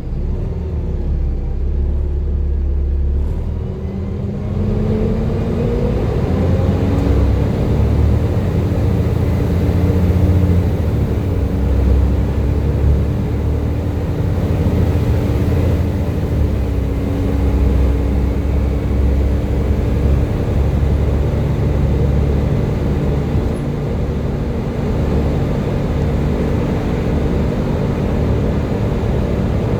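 Volvo B7TL bus's six-cylinder diesel engine under way, with a low rumble and the whine the uploader calls its "Hoover thrash". The whine rises in pitch over the first several seconds as the bus picks up speed, then holds steady.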